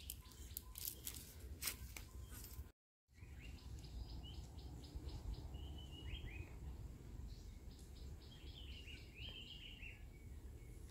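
Faint birdsong: runs of quick repeated high notes and short slurred calls, coming and going. In the first few seconds there are only scattered clicks, then the sound drops out briefly at a cut.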